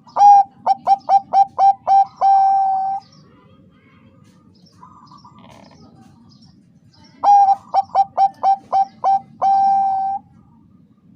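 Zebra dove (Bangkok-bred perkutut) singing two phrases a few seconds apart. Each phrase is a quick run of short staccato coos ending in a long held coo. Softer, quieter cooing comes in between.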